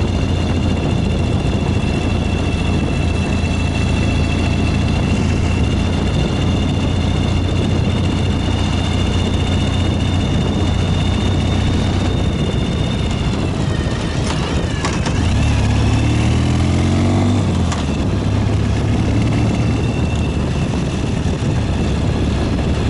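Ural 750 motorcycle's flat-twin engine running while riding, with a steady high whine above it. About 14 seconds in the pitch shifts, with a few clicks, and then the engine note climbs as it pulls.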